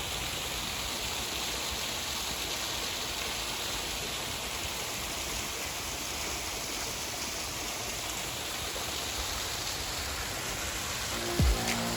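Small woodland waterfall, water falling and splashing in a steady, even rush. Music comes in near the end.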